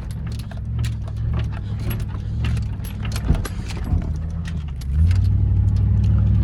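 Pickup truck engine running under load while driving on sand, with many small clicks and jingles like rattling keys. About five seconds in the engine gets louder as it is given more throttle.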